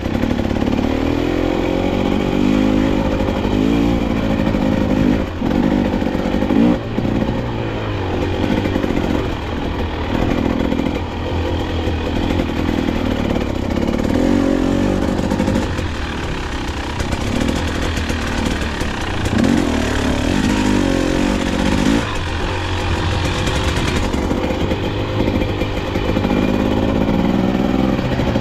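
KTM 250XC-W two-stroke single-cylinder dirt bike engine under way, revving up and down again and again as the throttle is worked.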